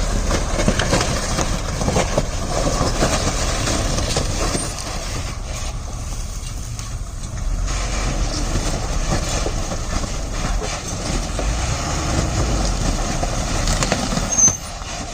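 A JCB backhoe loader's diesel engine running under load, with rattling and knocking from the machine at work throughout. There is a sharp louder knock near the end.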